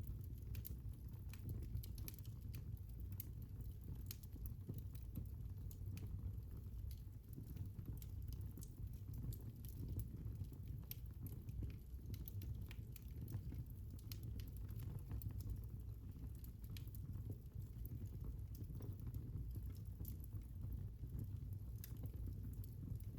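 Fire in a fireplace crackling: irregular sharp snaps and pops over a steady low rumble of the flames.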